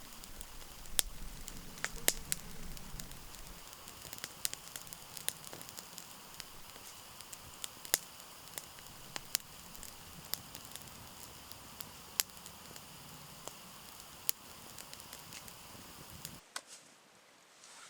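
Campfire crackling, with irregular sharp pops from the burning wood over a steady hiss. It cuts off suddenly near the end.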